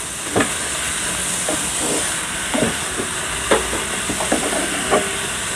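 Shredded cabbage sizzling in oil in a frying pan as a spatula stirs it, with about six short clicks and scrapes of the spatula against the pan.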